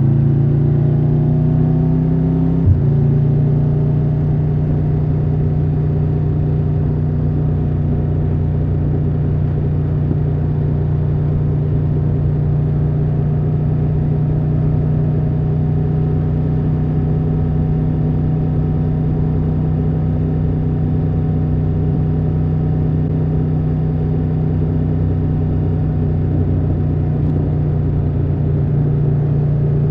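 Triumph Tiger 1200 Rally Pro's three-cylinder engine pulling with rising revs, then an abrupt drop in pitch with a click about three seconds in as it shifts up. It then holds steady at cruising speed.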